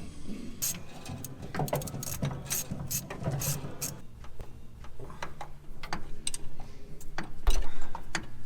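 Irregular metallic clicking and clanking of hand tools working on metal parts, with some ratchet-like clicks.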